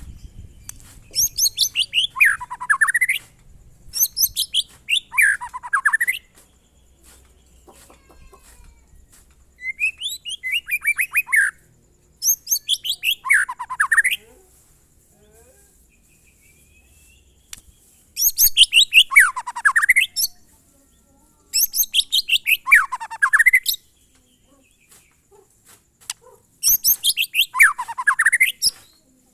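White-rumped shama (murai batu) singing the same phrase over and over, seven times. Each phrase is a quick run of notes that falls from very high to low and lasts about two seconds. This is the monotonous, repetitive song style that bird keepers call "glondong".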